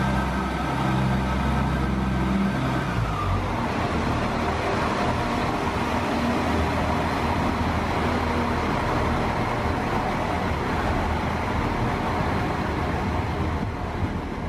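Irish Rail 22000 Class InterCity diesel railcar moving along the platform. A steady engine hum and a high whine fall away about three seconds in, leaving the steady rumble of wheels on the rails as the carriages go past.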